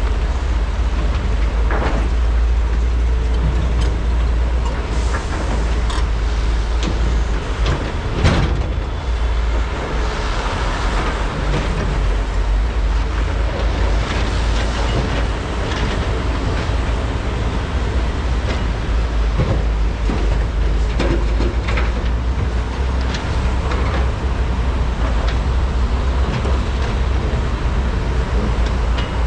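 Large hydraulic excavators' diesel engines running steadily under load, a deep constant rumble, with scattered clanks and knocks of buckets and rock during truck loading; the loudest knock comes about eight seconds in.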